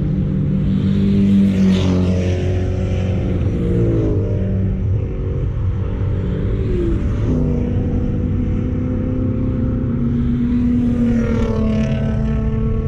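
Turbocharged 1999 Mazda Miata's four-cylinder engine running hard on track. Its pitch drops a few seconds in, holds steady through the middle, and climbs again near the end.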